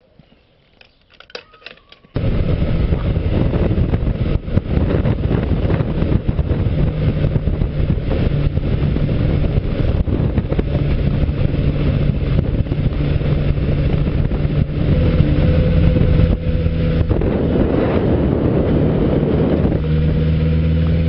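Motorcycle engine running on the move, mixed with road and wind noise on the microphone. The engine note shifts up and down several times. It cuts in abruptly about two seconds in, after a moment of near quiet with a few faint clicks.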